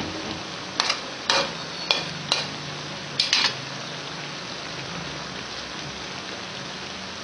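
Pork tongue and banana frying in a wok, a steady sizzling hiss. A metal spatula knocks and scrapes against the wok about six times in the first three and a half seconds.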